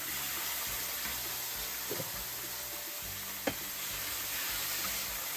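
Green beans sizzling in a hot wok as they are tipped in and stir-fried, a steady frying hiss. Two short knocks of the spatula against the wok come about two seconds and three and a half seconds in.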